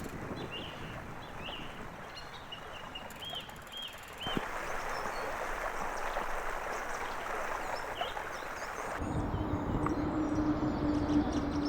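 Outdoor river ambience: small birds chirping several times in the first few seconds, then a steady rushing noise, and from near the end a low rumble with a steady hum.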